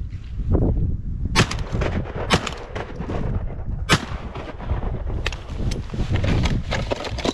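Three shots from a Franchi Affinity 12-gauge semi-automatic shotgun, the first two about a second apart and the third after a slightly longer gap.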